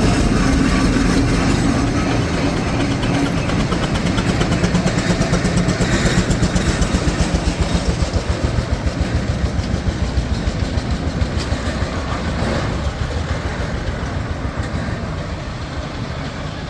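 An engine running with a quick, regular beat that slowly fades away.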